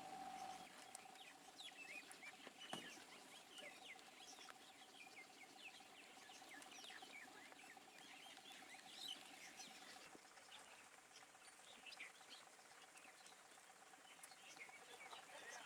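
Faint chirping of small birds, many short calls throughout, over a steady thin hum. A single sharp click about three seconds in.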